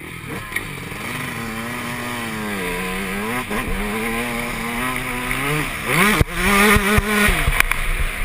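Yamaha YZ125 two-stroke motocross engine revving hard, its pitch climbing and easing as the rider works the throttle, with a sudden drop and rise in revs about six seconds in. Several sharp knocks follow over the next second or so.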